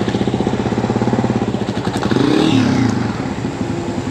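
Side-by-side UTV engine running at low speed with a fast, even firing pulse; about two seconds in an engine note briefly rises and falls in pitch.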